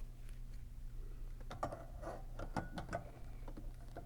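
Handling noise from a technician setting up a meter and jumper leads: scattered small clicks and taps, mostly in the middle of the stretch, over a steady low hum.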